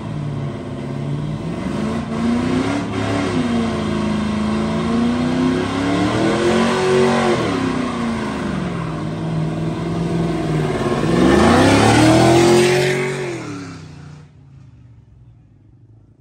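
Car engine revving hard during a burnout, its pitch rising and falling several times. It is loudest about twelve seconds in, then drops away quickly a couple of seconds later.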